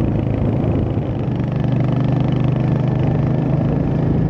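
Royal Enfield Hunter 350's single-cylinder engine running under way. It dips briefly about a second in, then holds a steady note.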